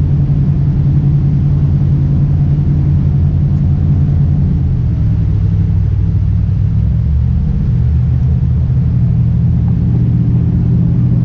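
Jet boat engine running steadily with a low drone. About halfway through the engine note drops, then rises again near the end.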